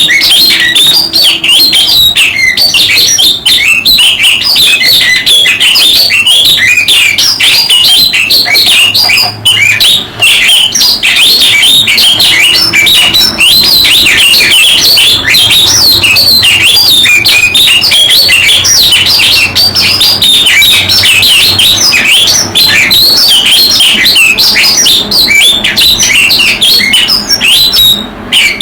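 A dense chorus of small songbirds: many short chirping and twittering notes overlapping without a break.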